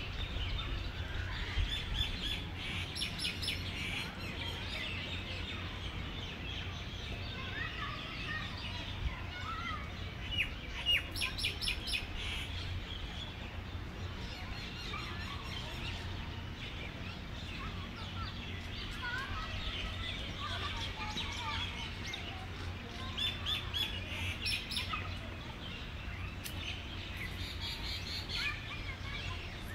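Small birds chirping in several bouts of quick, repeated high chirps, over a steady low rumble.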